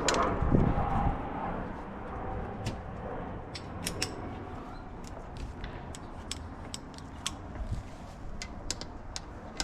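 Hand tools and small metal engine parts being handled: a low knock and rustle about half a second in, then scattered light metallic clicks and ticks at an irregular pace.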